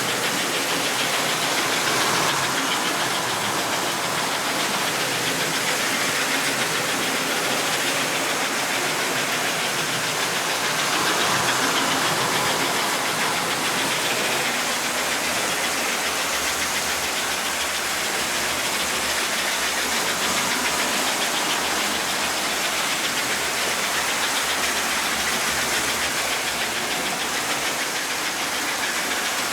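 Postwar American Flyer S-gauge toy steam locomotives running around the track: a steady whir and hiss from the electric motors and wheels on the rails, swelling gently as the train passes closer.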